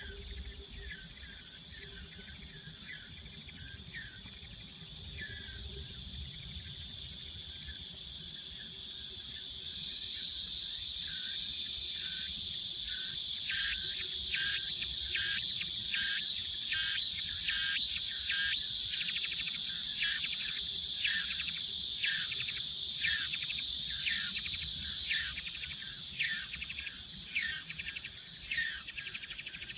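Summer forest insects droning, a steady high-pitched chorus. About a third of the way in a much louder buzzing joins suddenly and holds, then drops away near the end, over a regular series of short calls about two a second.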